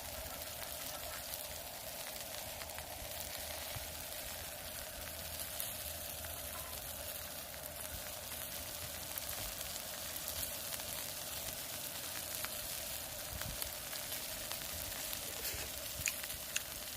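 Beef sirloin sizzling steadily on a hot griddle, with a few sharp clicks near the end.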